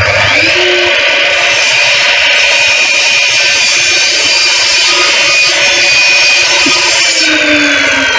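Electric mitre saw running and cutting through a wooden plank at a 30-degree angle: a loud, steady whine. About seven seconds in, the pitch begins to fall as the blade starts to slow.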